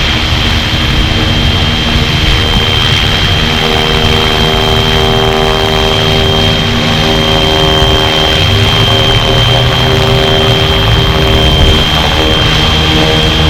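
FlyWing FW450 V3 electric RC helicopter in flight, running at steady speed: a constant high whine from its motor over the buzz of the spinning rotor, with a low rumble of wind underneath.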